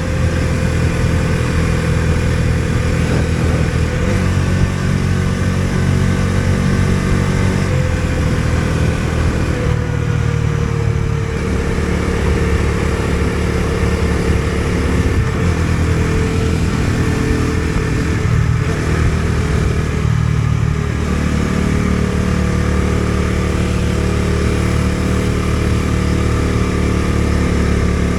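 Bajaj Dominar 250's single-cylinder engine running while the motorcycle is ridden, its note shifting a few times with changes in throttle.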